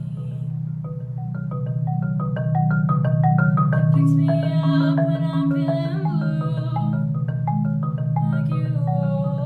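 Solo marimba playing: low notes sustained as rolls of fast repeated mallet strokes, under a melody of single struck higher notes.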